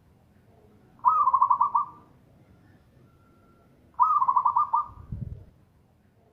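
Zebra dove (perkutut) cooing: two rapid, stuttering coo phrases about three seconds apart, with a brief low thump just after the second.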